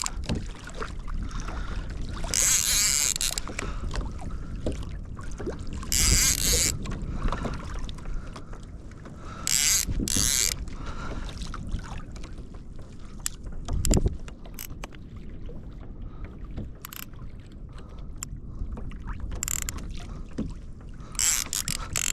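Water sloshing against a kayak hull with a low wind rumble on the microphone, broken by several short hissing splashes and a single knock about fourteen seconds in.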